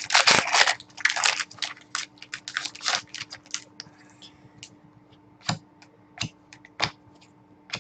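Foil trading-card pack being torn open and crinkled, a rapid run of crackling for the first few seconds, then four separate sharp clicks as the cards are handled.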